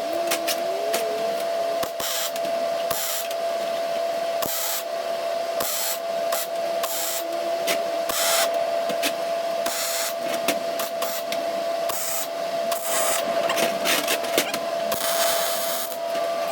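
Electric arc welder welding scrap-metal seams: irregular crackling and sputtering bursts of varying length over a steady hum.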